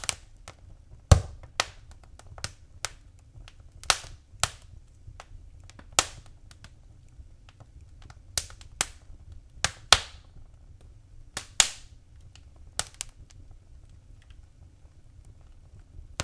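Wood fire in a fireplace crackling: about a dozen sharp, irregular pops over a steady low rumble, thinning out near the end.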